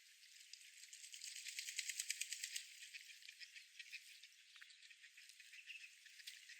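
A bird's fast, dry rattling call, faint, strongest from about one to two and a half seconds in and then trailing off into scattered ticks, over a soft high outdoor hiss.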